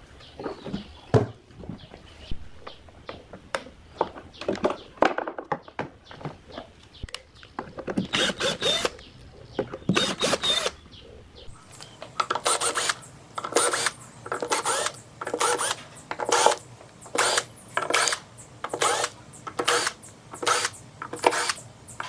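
Hand tool work on a subwoofer: irregular clicks and knocks, then rhythmic scraping strokes a little more than once a second from about halfway through.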